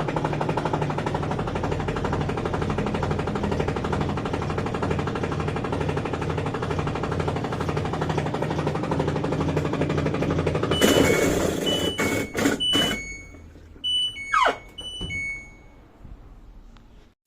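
LG top-load washing machine running with a loud, fast, steady rattling clatter, the noise that replacing its gear motor cured. About eleven seconds in the clatter stops, followed by clicks, several short control-panel beeps and a brief falling whine.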